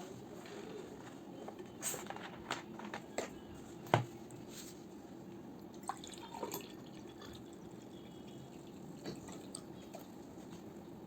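Eating sounds from a plate of fried rice and mutton curry: wet, soft sounds of food being handled, with scattered clicks and taps, the loudest about four seconds in.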